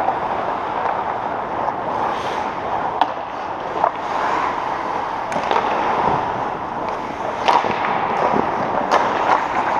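Ice hockey play heard in an arena: a steady hiss of skates scraping across the ice, with sharp clacks of sticks striking the puck or boards every second or two.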